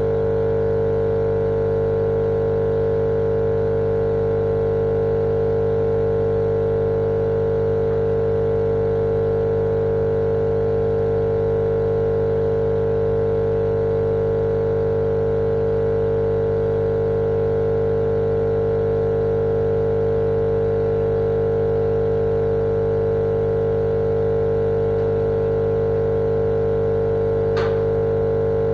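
Steady machine drone played as sleep white noise for babies: an unchanging hum with a strong mid-pitched tone over a lower hum, with one faint brief tick near the end.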